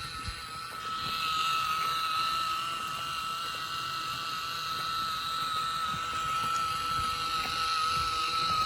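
Small DC motor of a homemade toy electric motorcycle running at a steady speed with a high, even whine, getting a little louder about a second in.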